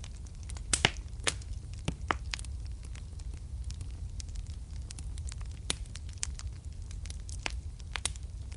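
Wood fire crackling in a fireplace: irregular sharp pops and snaps over a steady low rumble of the flames, the loudest pops about a second in.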